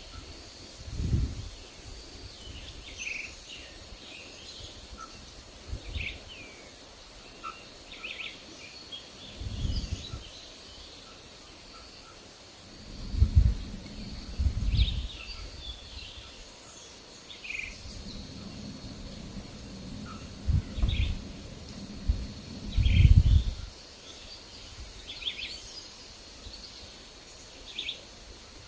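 Wild birds chirping in short, scattered calls. Low gusts of wind rumble on the microphone several times, loudest about halfway through and again near 21 to 23 seconds.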